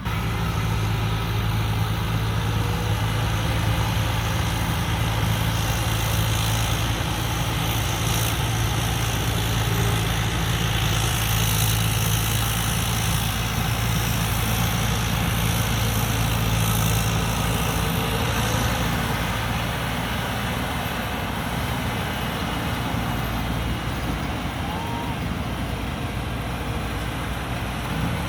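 A 260-horsepower combine harvester's diesel engine runs steadily under a dense wash of machinery noise. Its low hum weakens about two-thirds of the way through.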